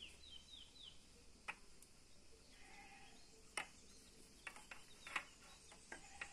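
A small bird chirps a quick run of falling notes that stops about a second in, then near silence with a few scattered faint clicks.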